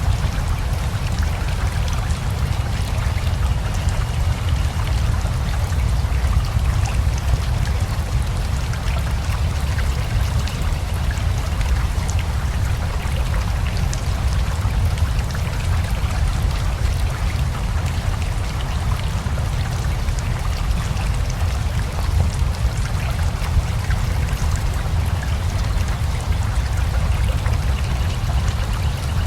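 Steady rain with a flowing river: an even, constant rush with a deep low rumble underneath and fine patter of drops on top.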